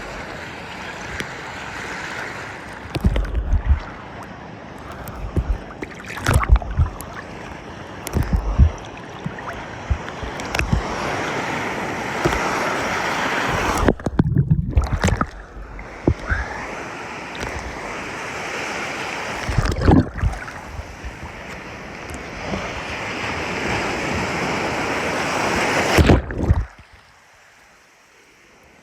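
Surf washing on a beach, a steady hiss that swells and ebbs with each wave, with repeated gusts of wind buffeting the microphone. The sound drops away suddenly near the end.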